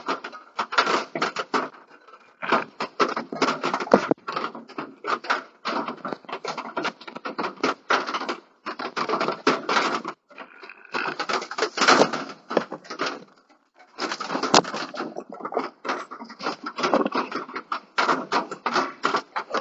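Dense, irregular rustling, scratching and knocking in a chicken coop, picked up by a security camera's built-in microphone, with a few short pauses.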